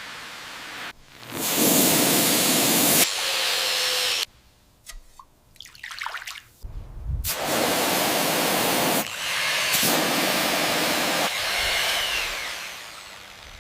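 Several long bursts of loud, even hissing spray, each lasting one to two seconds with short breaks between them, the first starting about a second in.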